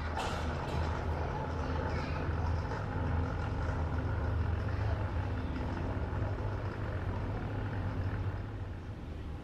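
A low, steady mechanical drone that starts suddenly and runs for about eight seconds before dropping away near the end, with faint voices over it.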